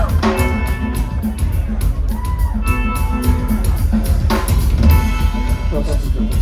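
A live band playing loud, drum-heavy music: rapid drum and cymbal hits over a steady bass, with pitched tones that glide briefly.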